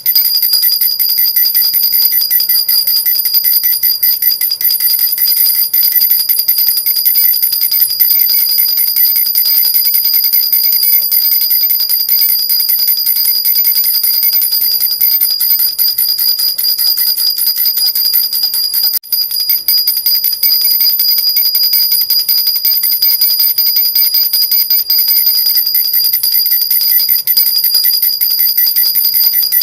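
Silver baby rattle (jhunjhuna) shaken continuously, a dense fast jingling of small bells with a steady bright high ringing, dipping briefly about 19 seconds in.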